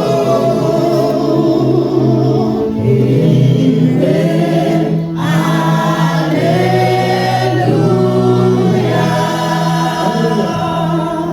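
A church choir singing a gospel hymn over sustained keyboard chords.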